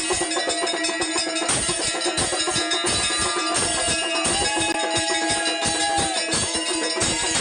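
Temple aarti music: rapid, steady dhol drumming with jangling metal percussion, and long held tones sounding over the beat.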